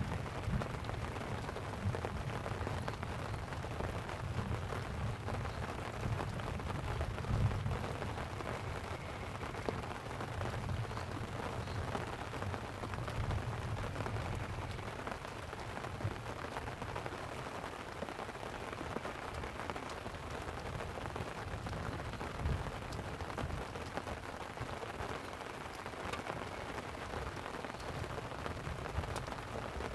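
Light rain falling steadily on a tent, with low rumbles of distant thunder swelling and fading in the first half.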